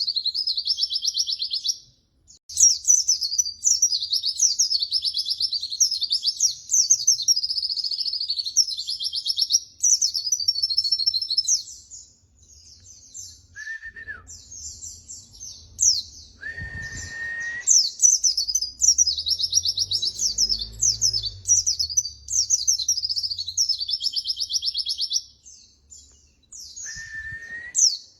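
White-eye (pleci) singing its long, fast, high-pitched warbling and trilling song in runs of several seconds, with brief pauses and a few short lower whistled notes in between.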